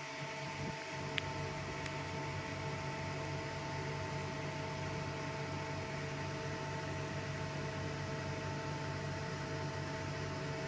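Cold hammer handle of a beauty machine running: a steady electrical hum with several fixed tones, and a light click about a second in.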